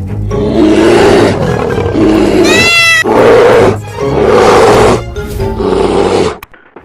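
A lion roaring over background music, about five loud roars in a row, with a brief high-pitched call in the middle.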